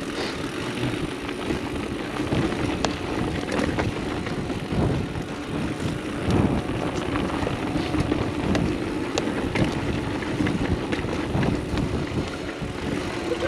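Mountain bike rolling on dirt singletrack: a steady rush of tyre and wind noise, with the bike rattling and clicking over small bumps.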